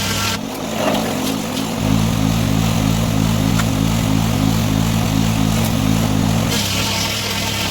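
An engine running steadily at constant speed, its low hum thinning briefly about half a second in, with a burst of higher hissing noise near the end.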